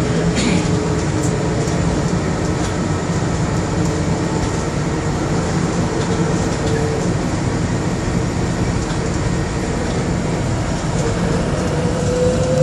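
Bombardier Innovia APM100 rubber-tyred people mover running along its guideway: a steady rumble under a pitched whine that rises near the end.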